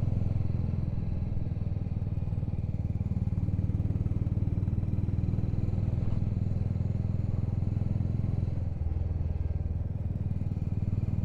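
Motorcycle engine running steadily while riding, with some road and wind noise, heard from on board the bike. The engine note shifts slightly about eight and a half seconds in.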